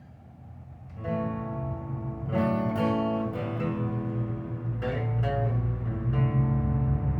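Acoustic guitar strummed in a song's instrumental intro, coming in about a second in with chords ringing over a steady low bass tone.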